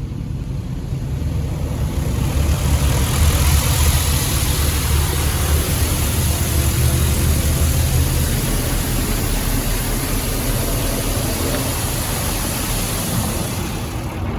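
Automatic car wash equipment working over a pickup truck, heard from inside the cab: a steady low rumble with a hiss of water spray that builds about two seconds in and stops near the end.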